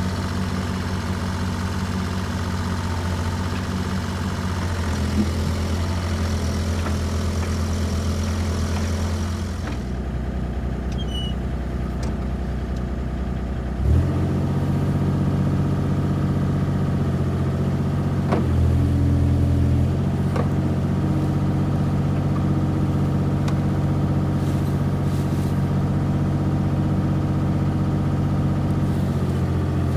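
Bobcat E32 mini excavator's diesel engine running steadily. About fourteen seconds in, after a sharp click, the engine comes up louder and higher in pitch and holds there.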